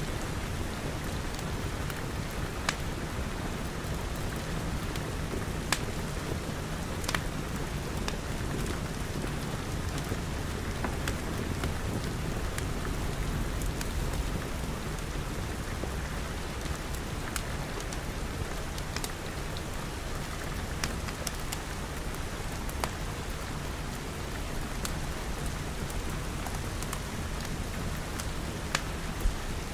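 Steady rain pattering with a low rumble underneath, mixed with a wood fire crackling: irregular sharp pops scattered throughout.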